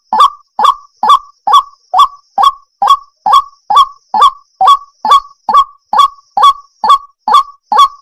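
Waterhen (jal murgi) calling: a short, loud, harsh call repeated steadily about two and a half times a second.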